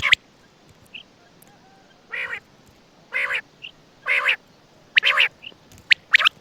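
Common quail calling: a series of short raspy, nasal calls about once a second, with quick sharp whistled notes near the start and again near the end.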